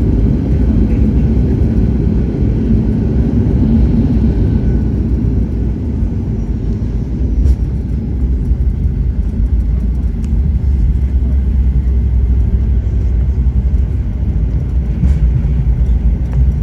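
Steady low rumble of a Boeing 737's engines and airflow, heard from inside the passenger cabin.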